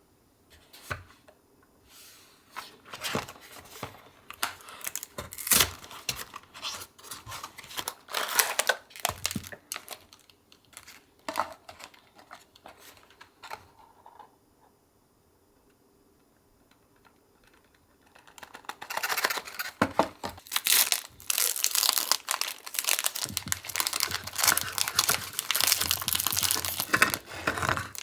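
Packaging crinkling and tearing as it is handled and opened: scattered crackles for the first half, a short pause, then a long, dense spell of crinkling from about two-thirds of the way in.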